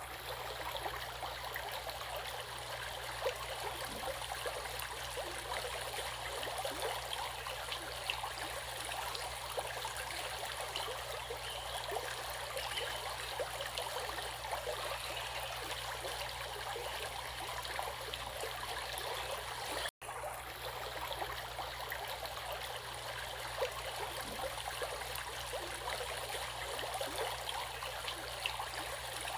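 Flowing water in a stream, a steady rushing and trickling that cuts out for an instant about twenty seconds in.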